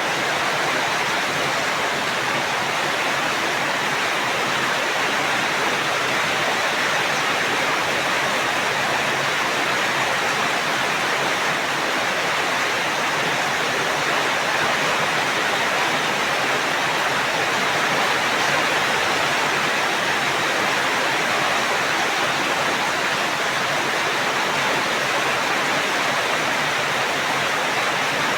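Steady heavy rain: a dense, even hiss with no separate drops, thunder or changes standing out.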